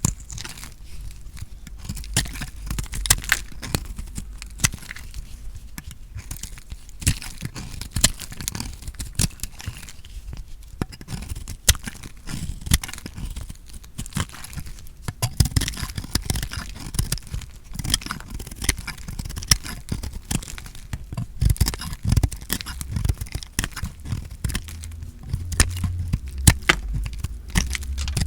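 Bars of soap being cut with a blade, a dense run of crisp crunching and crackling as the soap breaks apart.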